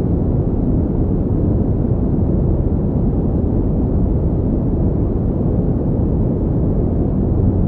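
Generated pink noise: a steady, unbroken rushing hiss, deep in tone with most of its weight in the lows and little high treble.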